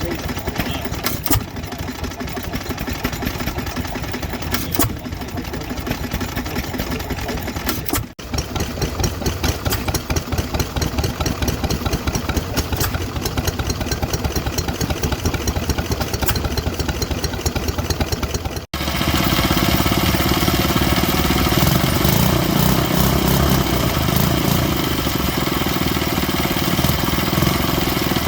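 Vintage stationary engines running, heard as three successive takes: one engine running steadily, then from about 8 seconds a different engine with a fast, even ticking, then from about 19 seconds a louder engine running steadily.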